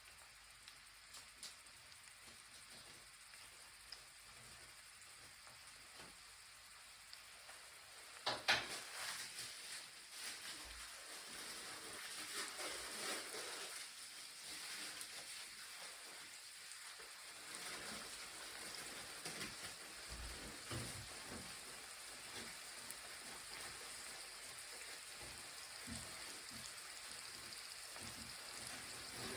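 Food frying and sizzling in a hot pan: a sharp clatter about eight seconds in, after which the sizzle grows louder and denser.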